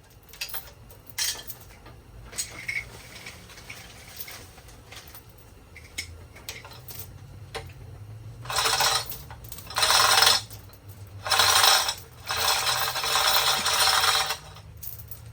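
Metal clanking and rattling as an engine block is lifted and turned on a hoist setup. There are light clicks at first, then four loud bursts of rattling in the second half, the last lasting about two seconds.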